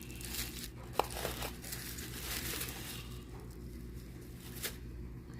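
Packaging crinkling and rustling as beard-care products are lifted out of a box, with a sharp click about a second in and another near the end.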